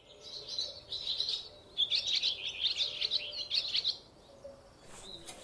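Birds twittering in quick, high chirps, thickest in the middle and dying down near the end.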